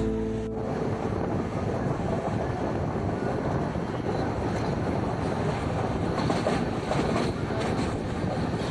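Mandovi Express passenger train running along the track: a steady running noise from the moving coaches.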